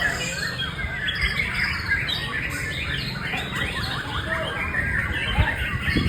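White-rumped shama (murai batu) singing a continuous, fast run of varied chirps and whistles, over a steady low rumble.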